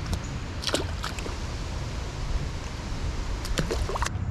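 River water rushing steadily, with a few short, sharp sounds: one near the start and a couple near the end.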